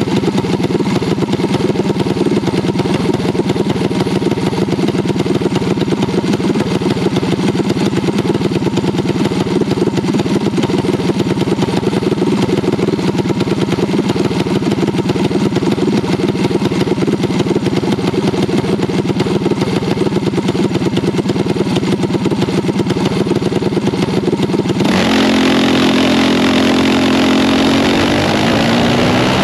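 Mini bike engine running hard at a steady, unchanging pitch. About four seconds before the end the note changes, and near the end it starts climbing in pitch.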